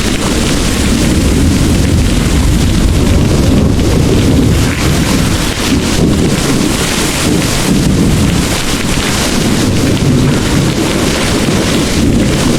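Heavy rain pouring steadily, with a deep, continuous rumble of distant rolling thunder underneath.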